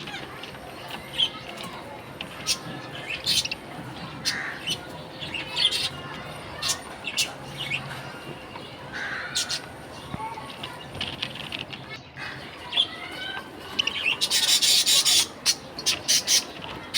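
Budgerigars giving short chirps and twitters, with sharp clicks scattered throughout. About fourteen seconds in comes a loud burst of noise lasting a second and a half.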